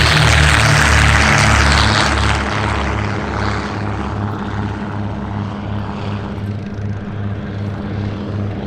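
Propeller-driven aircraft flying past, loudest in the first two seconds, then fading as it draws away.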